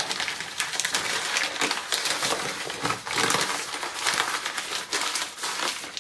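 Continuous crinkling and rustling with many small clicks, like material being crumpled and handled.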